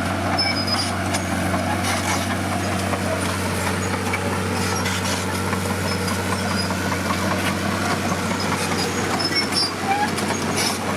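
Heavy diesel engine of construction machinery running steadily, a low even drone that holds the same pitch throughout. Faint short high chirps sound over it now and then.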